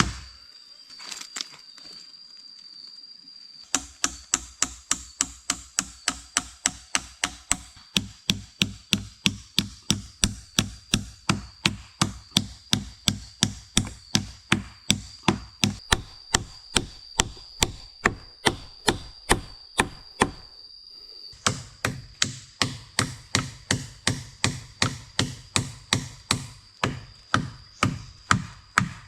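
Hammer driving nails into wood, steady blows about three a second, stopping briefly about twenty seconds in and then starting again.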